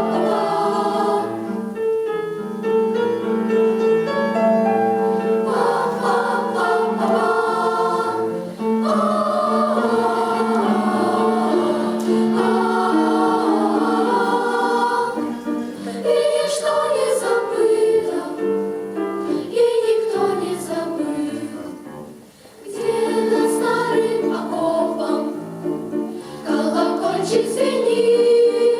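A choir singing a song, several voices in harmony, with a short pause about three quarters of the way through.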